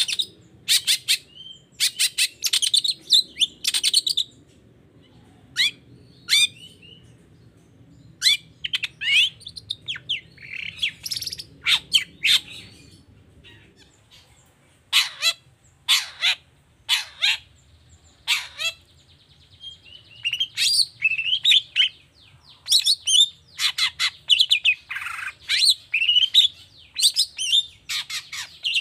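Long-tailed shrike (cendet) singing in bursts of rapid, sharp repeated notes mixed with short whistled phrases, with brief pauses between bursts.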